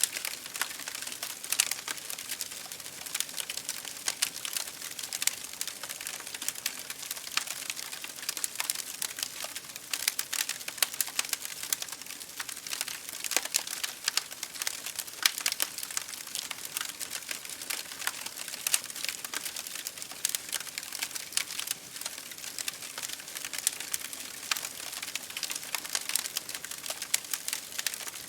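Wood fire crackling in a fireplace, mixed with rain pattering on a window pane: a dense, irregular stream of small pops and ticks.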